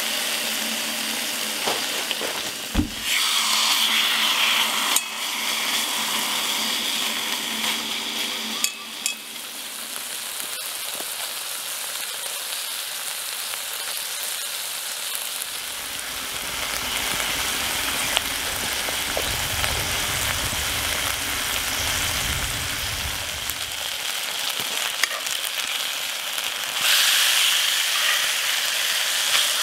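Marinated chicken sizzling as it fries in a Lodge cast-iron skillet, a steady hiss with a few small clicks and pops. Near the end the sizzle gets louder as the pieces are turned with tongs.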